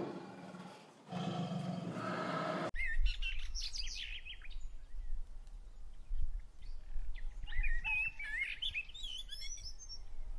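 A lion's deep growling roar, in two spells broken about a second in. It cuts off suddenly to small birds chirping in quick, rising and falling calls over a low rumble.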